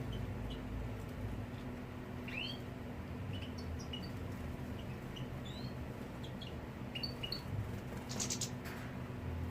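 European goldfinches giving short, scattered chirping calls, with a brief rattling burst about eight seconds in, over a steady low hum.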